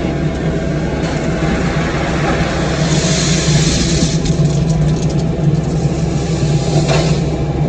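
Diesel engine of a Cat 305 mini excavator running steadily under work, with a brief rise in hiss about three seconds in.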